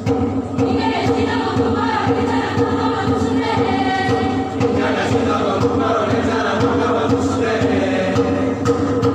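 Church congregation choir singing a hymn together, many voices in parts.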